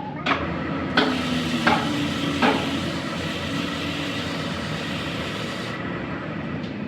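Electric arc welding crackling and sizzling on steel for about five seconds, cutting off abruptly near the end. Four sharp metal knocks about two-thirds of a second apart come in the first couple of seconds, over a steady workshop hum.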